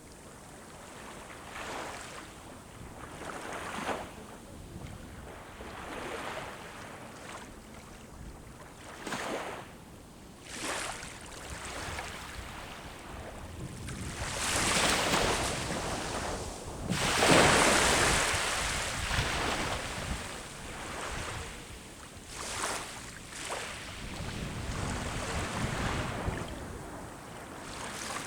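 Sea waves breaking and washing up the shore in repeated surges, the biggest one about halfway through.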